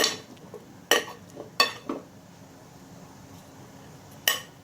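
A cooking utensil clinking against a pressure cooker pot: five sharp clinks, four close together in the first two seconds and one more near the end, as potatoes are added and stirred in with the cooked chicken.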